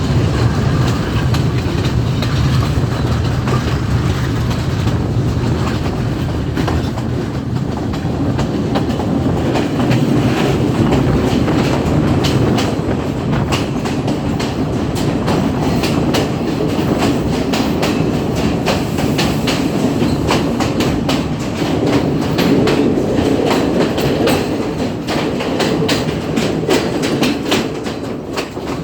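Class S14 diesel multiple unit running along the line, heard from on board: a steady rumble, with a fast, uneven clatter of wheel clicks over the rails from several seconds in.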